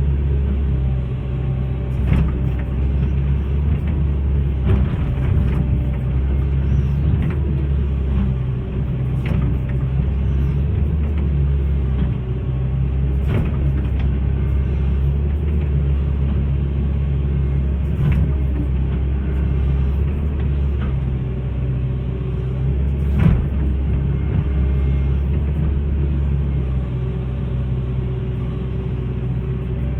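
Hitachi hydraulic excavator's diesel engine running steadily under work, with a few sharp knocks from the machine along the way.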